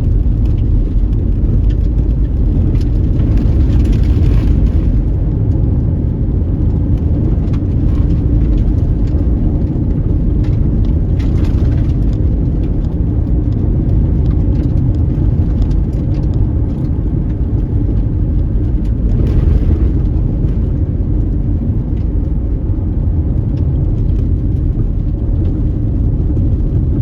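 Steady low rumble of a car driving: road and engine noise heard from inside the moving car. Brief swells of hiss come and go three times.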